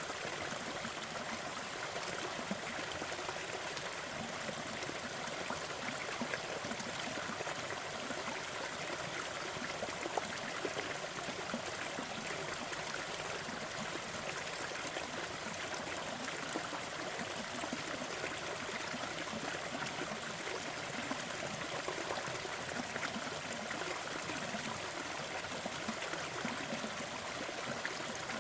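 Waterfall: water splashing and falling steadily, a continuous rushing noise with small irregular splashes.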